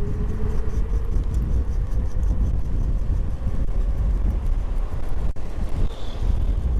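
Strong gusty wind buffeting the microphone on a moving electric moped: a steady, deep rumble.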